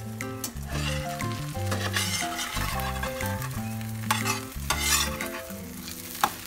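Bread and egg sizzling in oil in a nonstick frying pan, with a metal spatula scraping and tapping against the pan as the slices are turned. Background music with a low, stepping bass line plays underneath.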